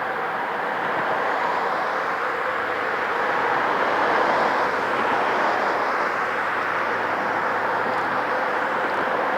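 Boeing 717's Rolls-Royce BR715 turbofan jet engines running with a steady rushing noise and a held tone, swelling a little about halfway through and easing slightly after.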